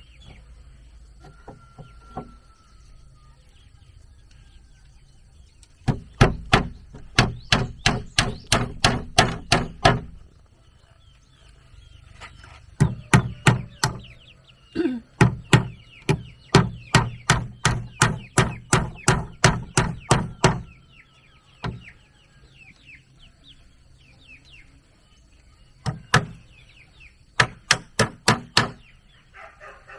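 Hammer driving nails into wood in three runs of quick, even blows, about three or four a second, the middle run the longest.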